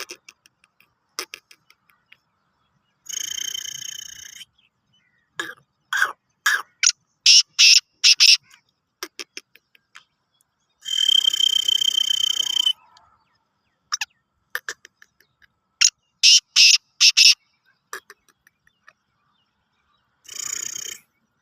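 Black francolin calling: quick runs of short, sharp, loud notes, with longer harsh bursts of about a second and a half in between, three times, and quiet gaps between the calls.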